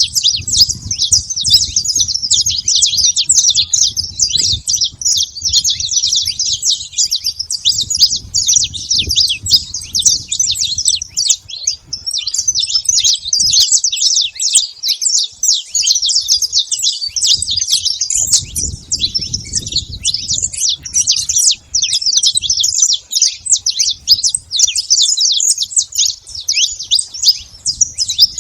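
A flock of saffron finches chirping and calling all at once, a dense nonstop chatter of many overlapping high notes. A faint low rumble comes and goes underneath.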